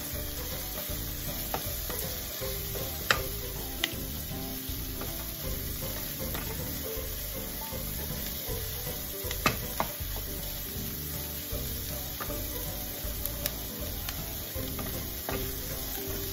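Chopped white onion and garlic sizzling in oil in a frying pan while a wooden spatula stirs them, with a few sharp knocks of the spatula on the pan, the loudest about three seconds in and again near the middle.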